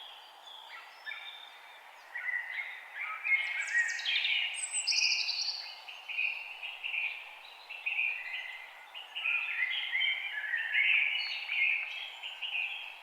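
Several forest birds singing and calling at once: a dense chorus of short chirps, trills and whistled phrases that grows busier and louder about two seconds in, over a steady background hiss.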